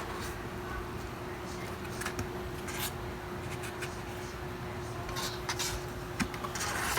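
Soft, scattered rustles and light scratching ticks over a steady low hum.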